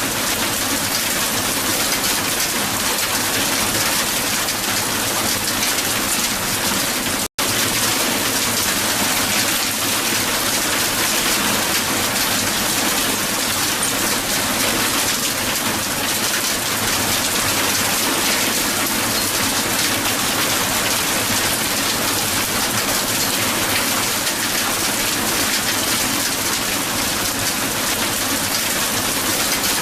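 Hail falling hard on the ground: a dense, steady patter of hailstones hitting a hard surface. It cuts out for an instant about seven seconds in.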